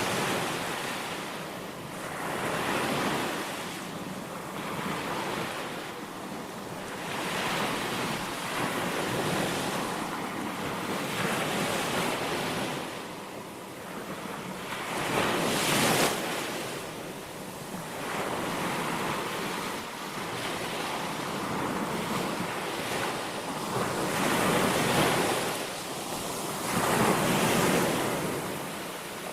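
Sea waves breaking and washing on a beach, the surf swelling and easing every few seconds, with wind on the microphone.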